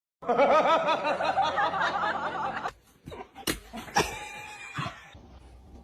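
Laughter of about two and a half seconds with a wavering, bouncing pitch that stops abruptly, followed by a few sharp clicks and knocks.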